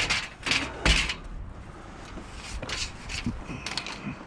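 Scrap being picked up and handled, giving a few knocks and clatters, the heaviest about a second in, then lighter scattered clicks.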